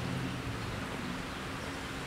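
A car engine idling, a low hum that fades, under steady outdoor background noise.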